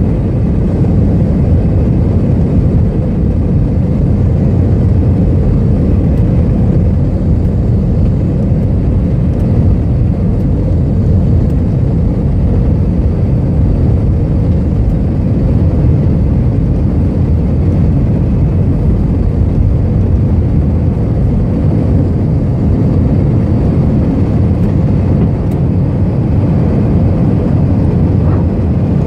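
Airbus A320-200 heard from inside the passenger cabin: a loud, steady low rumble of jet engines and airflow with no change in pitch.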